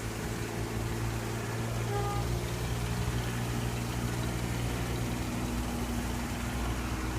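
A steady low engine hum, running evenly.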